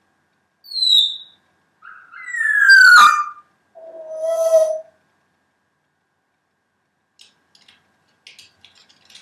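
African grey parrot whistling: a short high falling whistle, then a louder, longer whistle sliding down in pitch, then a lower steady hooting note. Faint small clicks follow near the end.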